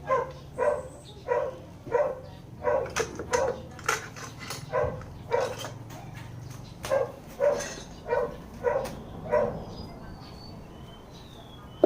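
A dog barking repeatedly, about fifteen barks roughly half a second apart, stopping after about nine and a half seconds.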